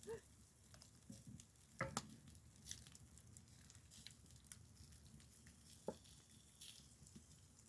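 A wood fire crackling quietly, with scattered sharp pops and a few small knocks, the loudest about two seconds in.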